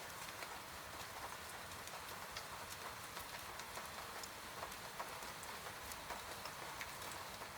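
Steady rain with a wood fire crackling: many small, irregular pops over the rain's even hiss.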